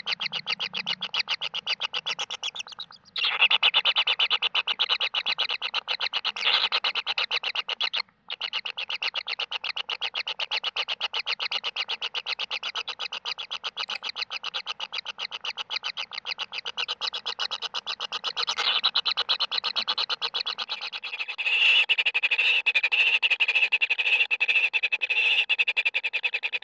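Kingfisher nestlings begging: a fast, regular buzzing trill of many pulses a second, high-pitched and continuous, with two brief breaks early on and growing louder near the end.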